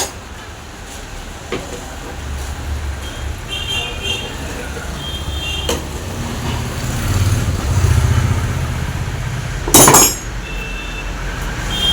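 Low rumble of a motor vehicle, swelling for a few seconds past the middle, with a few faint high tones and light clicks. A loud sharp knock about ten seconds in.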